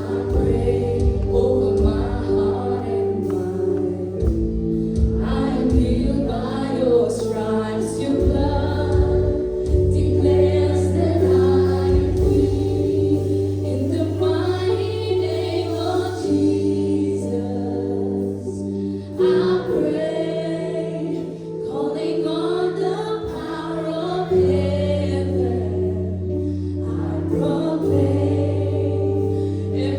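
Church worship music: a group of singers singing a gospel worship song over long-held chords and a steady bass, in phrases with short breaths between them.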